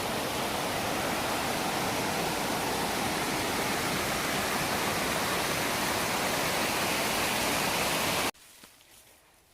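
Waterfall rushing steadily, a dense roar of falling water that cuts off abruptly near the end.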